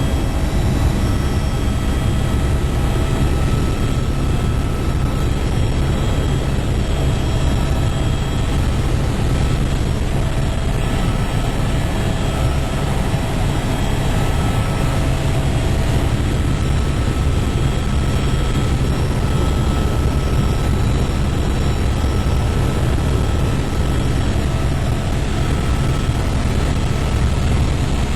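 Helicopter running steadily: an even, loud low drone of rotor and engine, with a thin steady whine above it.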